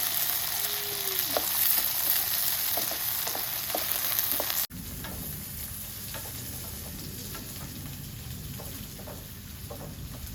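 Food sizzling and frying in a hot pan, with small clicks and scrapes from stirring. About halfway through the sizzle cuts abruptly to a quieter, lower frying sound.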